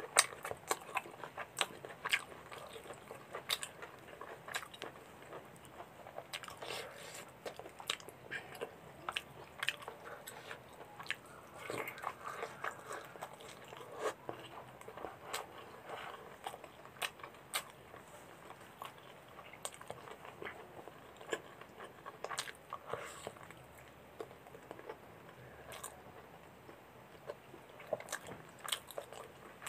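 A man chewing and biting mouthfuls of puri and mutton curry close to the microphone: many short, irregular mouth clicks throughout.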